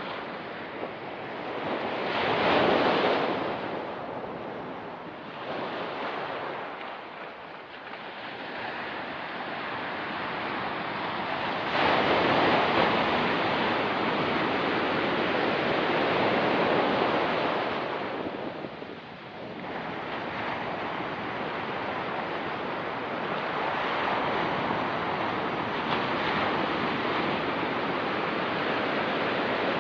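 Ocean surf breaking and washing over a rocky pebble beach in rolling surges: a swell about two seconds in, a longer, louder one from about twelve seconds that drops away near nineteen seconds, then a steady wash.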